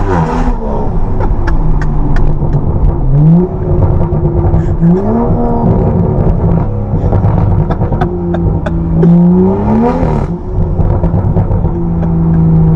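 Straight-piped BMW M135i's turbocharged straight-six pulling hard several times, rising in pitch about three, five and ten seconds in, and running steadily in between.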